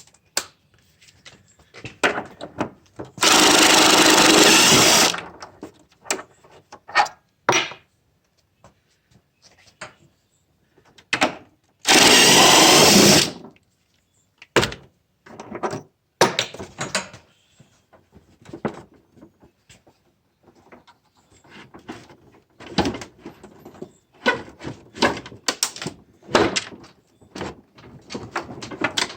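Impact wrench with a 12 mm half-inch-drive socket run in two bursts of about two seconds each, loosening tight engine mount bolts on a Honda mower deck. Between and after the bursts, metal clinks and knocks of the socket, bolts and tools.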